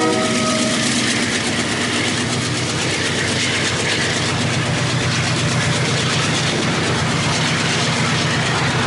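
Diesel freight train passing close by. The tail of its horn cuts off in the first half second, then comes the steady rolling noise of steel wheels on rail under the HXN5 and second diesel locomotive and the loaded container flat wagons, with a low engine hum that grows stronger about halfway through.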